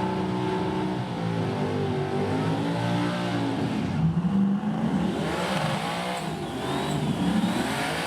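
Drag racing truck engines revving and accelerating hard, the engine pitch climbing and dropping several times.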